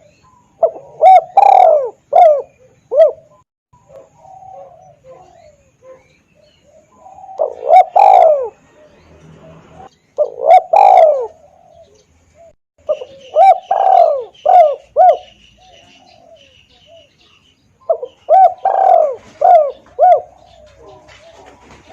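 Spotted dove (tekukur) lure call: loud phrases of three to five coos, repeated every few seconds, with fainter cooing between them.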